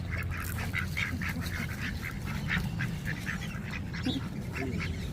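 A flock of ducks calling in a rapid, continuous run of short quacks, about five a second, while being fed.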